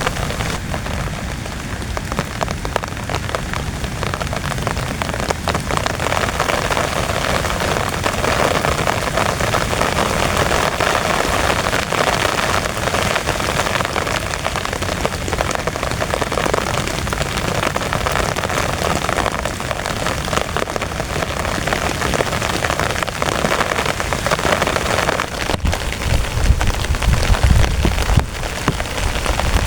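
Heavy rain pattering steadily on a tent, a dense hiss of drops. Near the end a low rumble swells for a few seconds.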